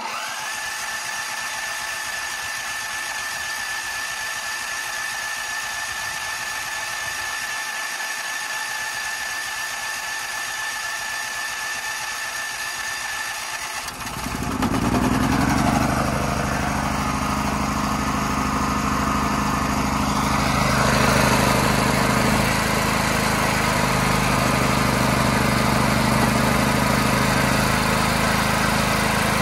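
Hyundai HYD-G-5500W generator's petrol engine cold starting: a steady high whine with hiss for about fourteen seconds, then the engine catches and runs louder and steadily, settling slightly a few seconds later.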